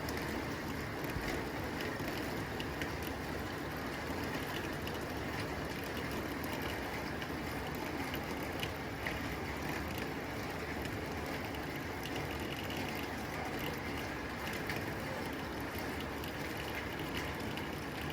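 Steady rain falling on a tin roof: a dense, even patter with scattered sharper drop ticks.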